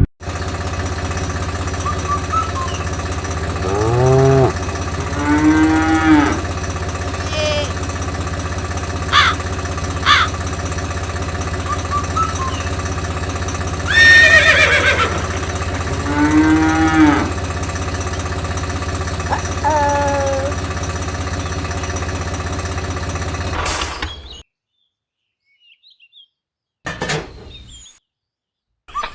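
Cattle mooing in several long calls that bend in pitch, over a steady low motor hum. The hum cuts off suddenly about 24 seconds in.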